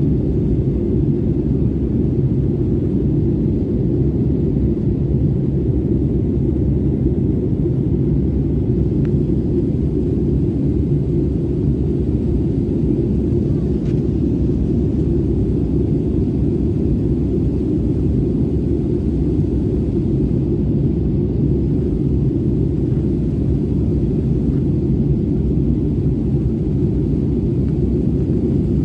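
Citilink airliner's engines at takeoff power, a steady low rumble.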